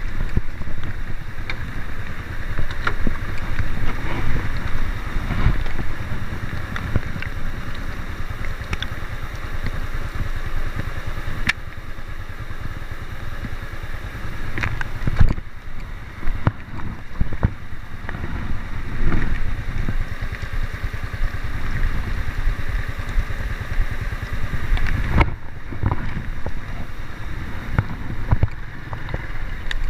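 A vehicle driving along, a steady low rumble with wind buffeting the microphone and frequent short knocks and rattles.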